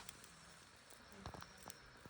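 Wood campfire crackling faintly: a few scattered snaps and pops over a soft hiss.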